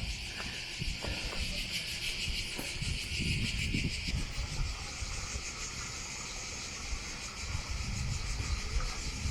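Steady chorus of insects buzzing, a dense high shimmer with rapid pulsing, with low thuds now and then underneath.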